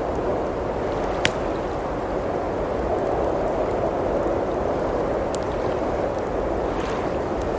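Wood fire crackling, with one sharp pop about a second in and a few fainter snaps, over a steady rush of blizzard wind.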